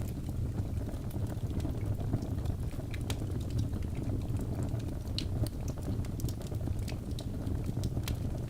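Birch logs burning in a fireplace: a steady low rumble of flame with frequent small sharp crackles and pops scattered throughout.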